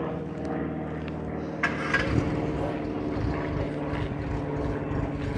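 Car engine idling steadily, with a few short sharp knocks about two seconds in.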